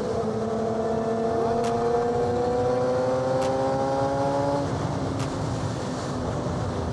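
Suzuki GSX-R600 inline-four engine through its M4 exhaust, pulling under throttle with its pitch slowly rising. About four and a half seconds in, the engine note drops away, as when the throttle is rolled off or a gear is changed.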